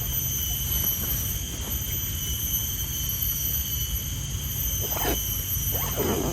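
Forest insects drone steadily on one high pitch over a low, steady rumble. Near the end come two short rising-and-falling animal calls, about a second apart.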